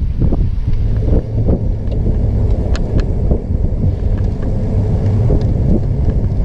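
Steady low rumble of a trike rolling along a campground road: wind buffeting the microphone and tyre noise, with a few sharp clicks and crackles.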